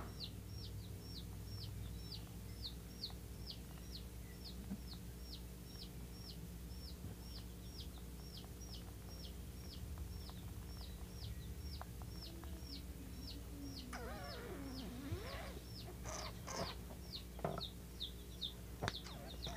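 A bird chirping over and over: short high chirps, each falling in pitch, about two or three a second. A few faint clicks come near the end.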